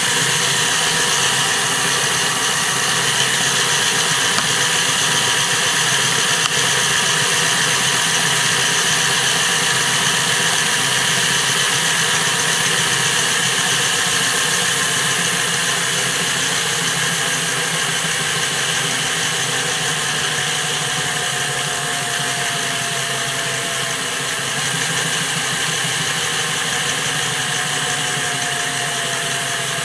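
Hornby model Flying Scotsman locomotive running on a rolling road: its small electric motor and gears whir steadily as the wheels spin the rollers. A thin whine in the sound slowly falls in pitch over the second half.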